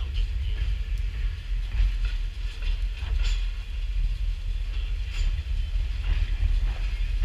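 Railroad cars rolling past at close range: a steady low rumble with scattered wheel clicks and brief squeaks.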